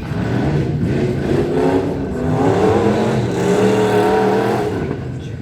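Ford Ranger race truck with a 351 Windsor V8 revving hard under acceleration. Its pitch climbs over the first two seconds, holds high, then drops off about five seconds in.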